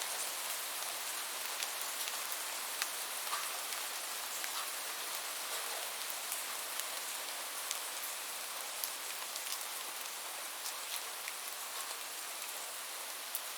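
Steady rain falling, a continuous hiss with scattered sharp drip and drop ticks.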